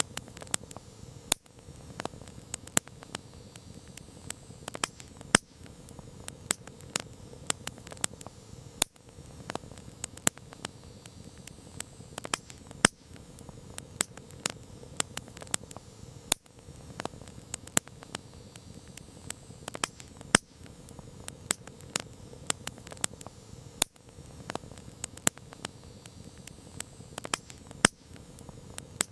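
Wood campfire crackling: sharp pops and snaps, several a second and of varying loudness, over a steady low hiss of burning.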